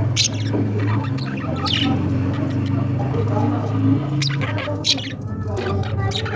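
Budgerigars chattering, with several short, sharp squawks over a steady low hum.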